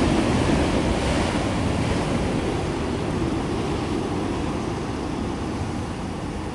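Steady rumble of a freight train rolling past, slowly fading as it moves away.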